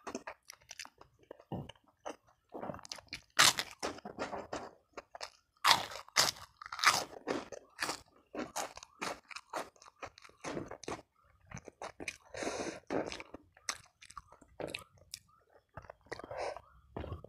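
Close-miked chewing of crunchy food, a run of irregular crisp crunches and bites with wet chewing between them; the sharpest crunches come about three and a half and six seconds in.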